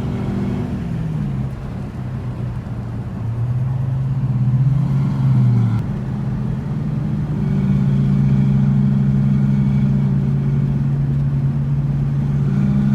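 A V8 muscle car's engine running while driving: its note climbs for a couple of seconds, drops suddenly about six seconds in as the revs fall, then holds a steady drone.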